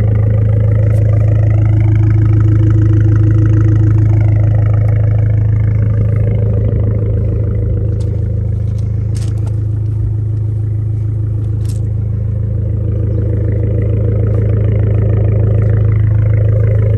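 Abarth 595's 1.4-litre turbocharged four-cylinder engine running steadily through its sports exhaust, with a slight lift in pitch and level about two to four seconds in.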